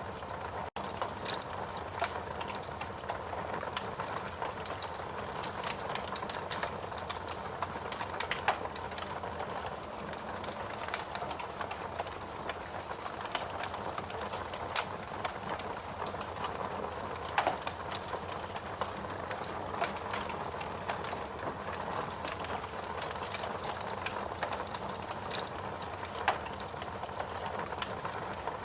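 Log fire in a fireplace crackling steadily, with scattered small pops and a few louder ones spread through, and a split-second gap in the sound just under a second in.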